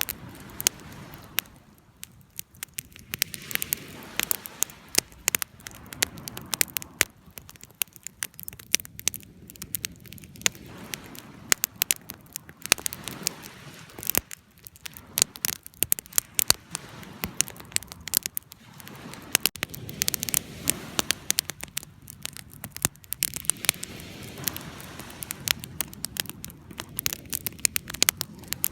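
Wood fire burning, with constant irregular sharp crackles and pops over a low, uneven hiss of the flames.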